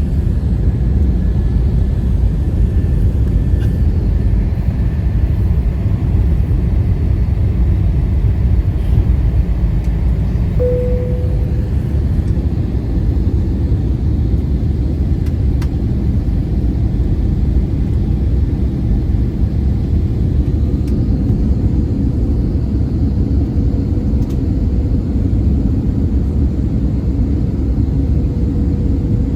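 Airbus A320-200 cabin noise on the way in to land: a steady low rumble of engines and airflow. A short clear tone sounds about a third of the way in, and a faint steady hum comes in during the second half.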